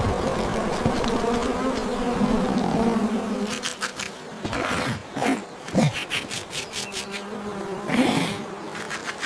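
Steady insect-like buzzing, like a flying bee or fly, heard as a cartoon sound effect. In the second half the buzz gives way to a run of clicks and short swooping sounds.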